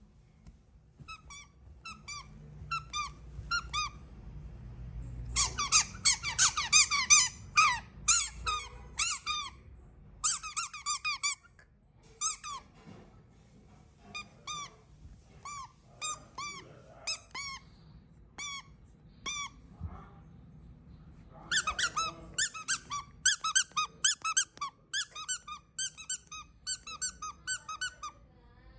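Squeaky baby toys squeezed over and over, giving short high squeaks. Some come in quick runs of several a second, others one at a time with short pauses between.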